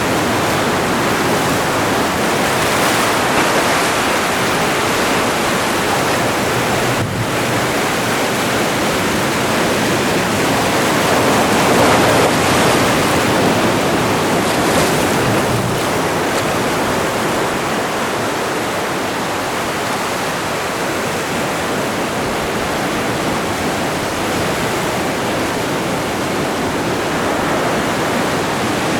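Atlantic surf: a continuous wash of breaking waves, swelling louder about twelve seconds in and then easing a little.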